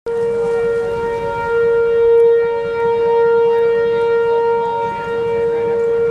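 Outdoor tornado warning siren sounding one steady, held tone, swelling a little in loudness about two seconds in.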